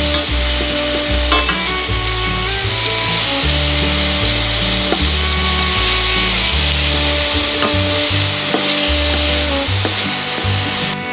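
Meat, salmon and squid sizzling in oil in a stainless steel chef pan, stirred and scraped with a wooden spatula, with background music underneath.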